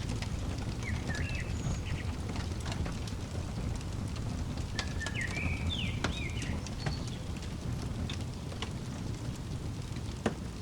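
Fireplace fire crackling with scattered sharp pops over a steady low rumble, one pop standing out near the end. Short bird chirps come in about a second in and again around five to six seconds in.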